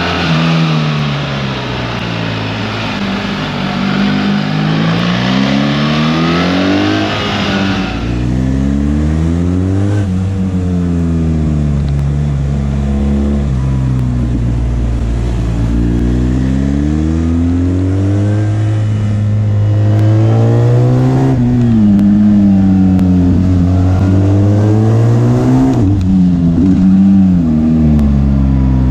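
BMW R 1300 GS boxer-twin engine heard from the saddle, its pitch climbing and dropping back several times as the bike accelerates and the revs fall. A loud rushing hiss lies over it for the first eight seconds, then cuts away.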